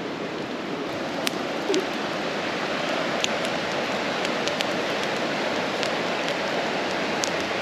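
Charcoal campfire under a rotisserie chicken crackling, with a few scattered sharp pops over a steady rushing hiss.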